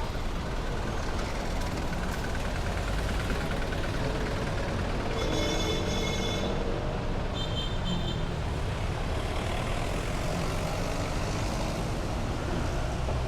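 Busy road traffic: a steady rumble of passing vehicle engines. A high-pitched tone sounds for over a second about five seconds in, and a shorter one near eight seconds.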